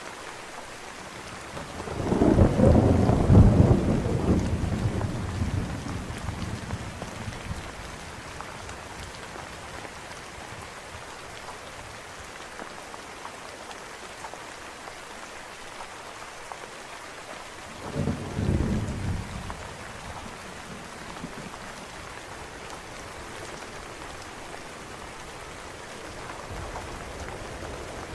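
Steady rain with two peals of thunder: a loud rolling rumble about two seconds in that fades over several seconds, then a shorter, fainter one about two-thirds of the way through.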